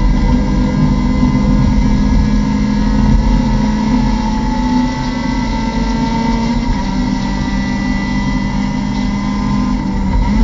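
Mazda MX-5 Cup race car's four-cylinder engine heard from inside the cockpit, running hard at high revs under full throttle. About two-thirds of the way through its pitch steps down once, as on an upshift.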